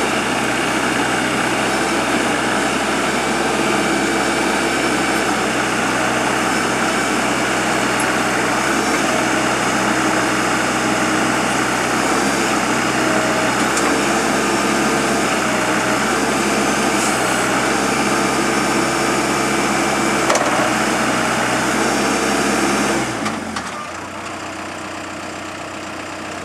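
Komatsu WB142 backhoe loader's diesel engine running steadily at raised revs, then dropping to a lower, quieter idle near the end.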